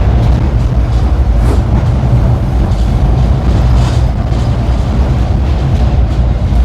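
Tram running along the track: a steady, loud low rumble of wheels on rail, with a couple of faint clicks.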